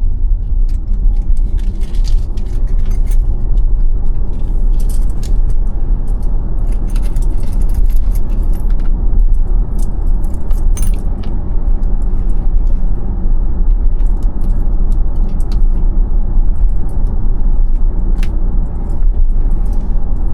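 Road and tyre noise inside the cabin of a moving 2021 Tesla Model Y: a steady low rumble, with scattered light clicks and rattles throughout.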